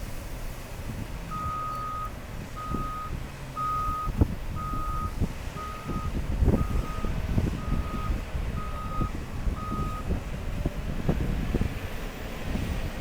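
Backup alarm on heavy earthmoving equipment beeping nine times at about one beep a second, then stopping. Under it a heavy diesel engine runs, with scattered clunks.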